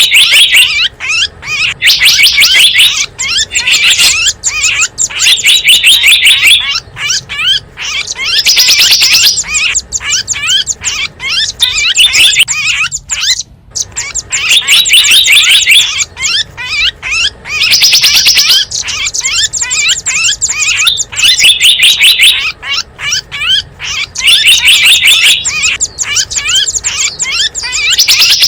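Recorded chirping of small wild birds played as a bird-luring call: fast, high twittering trills in loud bursts of a second or so, repeating every two to three seconds with short gaps.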